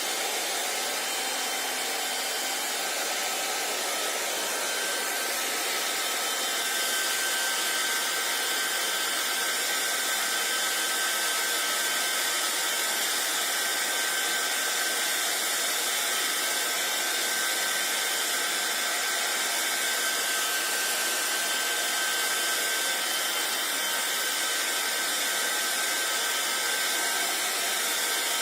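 Hair dryer running steadily: a constant rush of air with a faint high whine through it, getting slightly louder about six seconds in.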